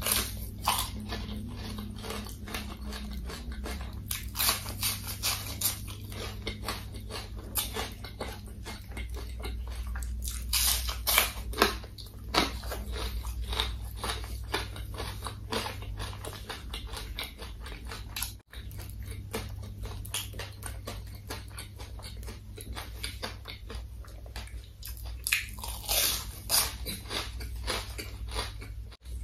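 Close-miked chewing of crunchy breaded fried food: crisp crackling crunches and wet mouth sounds, with louder bursts of crunching at the first bite, about ten seconds in and again near the end. A steady low hum runs underneath.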